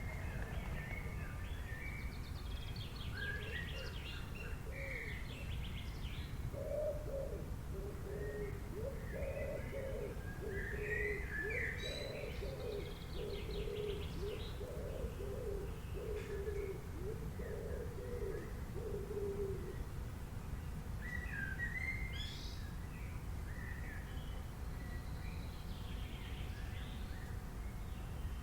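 Wild birds chirping and trilling in short scattered phrases, with a lower bird call repeated many times from about a quarter to two-thirds of the way through, over a steady low rumble.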